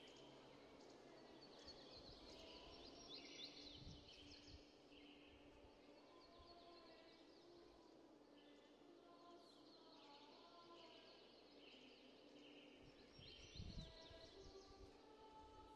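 Faint outdoor ambience with small birds chirping and twittering in short bursts, and a low rumble about four seconds in and again near the end.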